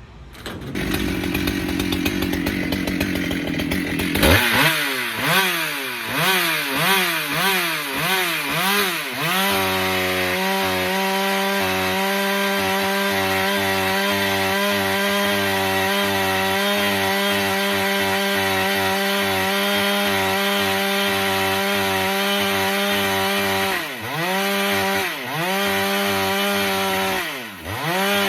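Husqvarna 395 two-stroke chainsaw revved up and down in several blips about four seconds in, then held at a steady full-throttle pitch, with the sound of cutting wood. It eases off and comes back up a few times near the end.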